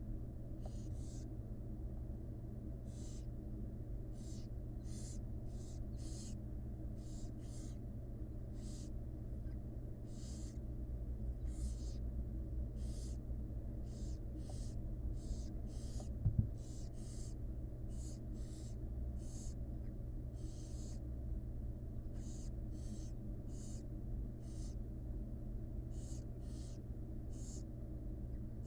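Barn owl nestlings making their raspy begging hisses, short breathy calls repeated irregularly, a few a second, from several chicks. A steady low hum runs underneath, and a single brief thump comes about 16 seconds in.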